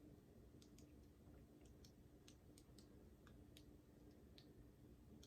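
Near silence: room tone with a faint steady hum and scattered faint clicks.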